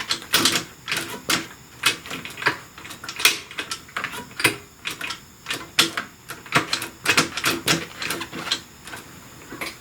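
Irregular metallic clicks and clacks, two or three a second, from hand tools and metal parts being handled while working on a motorcycle's shift pedal linkage.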